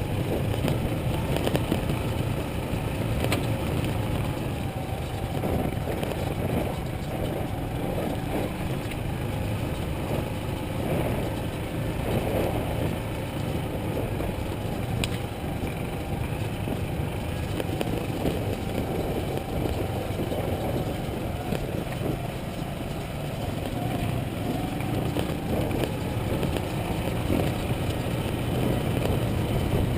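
Motorcycle engine running while riding, with wind and road noise; the engine pitch wavers up and down as the speed changes.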